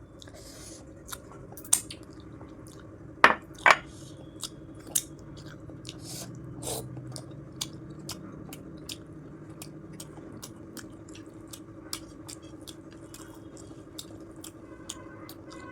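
A person chewing a mouthful of soft paneer, close-miked, with frequent wet mouth clicks and smacks. Two louder clicks come close together about three and a half seconds in.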